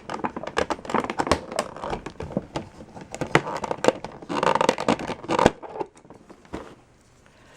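Stiff plastic packaging tray crinkling and crackling with many sharp clicks as a toy's box missile is worked loose from it by hand; it goes quiet about six seconds in.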